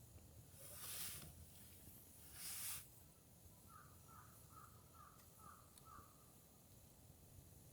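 Faint outdoor quiet with two brief hissing rustles, then a bird calling six short notes in quick succession.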